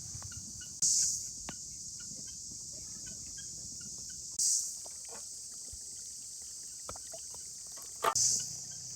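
Outdoor insect chorus: a steady high-pitched buzzing that swells louder three times, about a second in, around the middle and near the end. Scattered small clicks and a sharper knock sound over it just after eight seconds.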